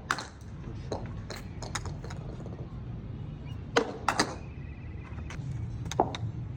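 Sharp knocks of cricket balls hitting bats and the pitch during net practice: about a dozen irregular cracks, the loudest pair close together about four seconds in, over a steady low rumble.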